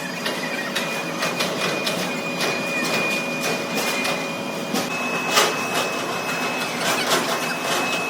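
Metalworking machine cutting metal: a steady high whine with frequent irregular scraping clicks, the whine stepping slightly higher about five seconds in.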